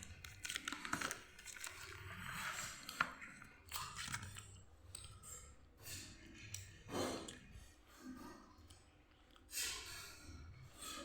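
Close-up chewing and crunching of food, with irregular crisp crunches scattered through.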